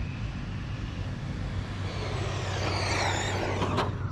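Losi 22S RC drag car's electric motor whining, gliding up and down in pitch through the second half, with a sharp click near the end, over a steady low hum.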